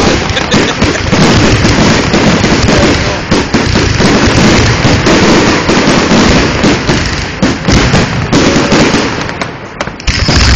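Fireworks display barrage: aerial shells bursting in a rapid, dense run of loud bangs and crackling. It thins out briefly near the end before another heavy bang.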